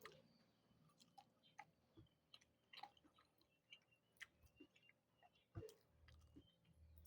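Faint close-up chewing of soft food, heard as short, irregular wet mouth clicks and smacks.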